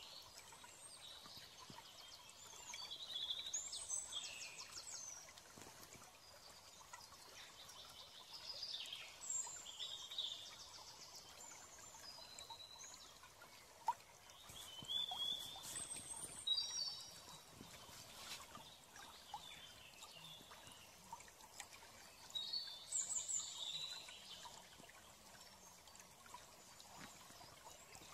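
Faint bird chirps and twittering in short clusters every few seconds, over a low steady background hiss.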